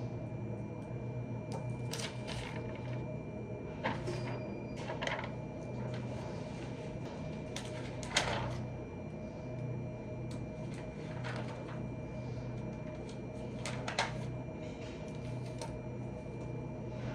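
Scattered light taps, clicks and short rustles of desk work, a few seconds apart, over a steady low hum.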